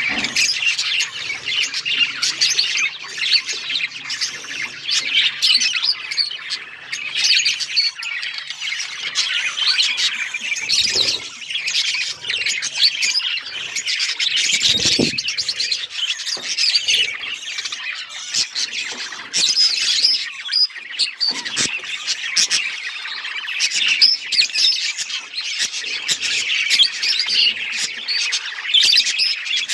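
Several budgerigars (budgies) chattering and warbling continuously, a dense mix of overlapping chirps and squawks, with a few low thumps here and there.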